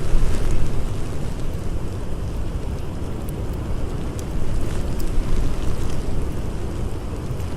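Blizzard wind blowing in a steady low rumble, with a few faint crackles from a wood fire.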